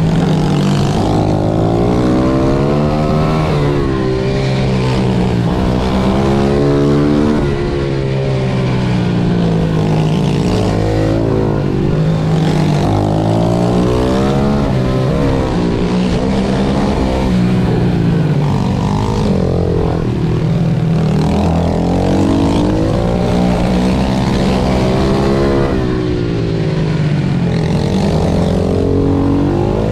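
Pit bike engine revving hard at racing pace, its pitch repeatedly climbing as it accelerates and dropping off into the corners.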